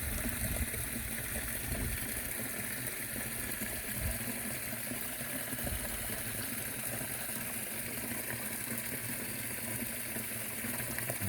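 Stream water flowing over a weir: a steady, even rush of water.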